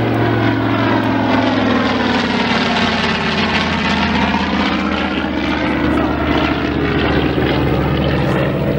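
Grumman TBM Avenger's Wright R-2600 fourteen-cylinder radial engine and propeller in a low pass overhead. The engine note drops in pitch about halfway through as the plane goes by.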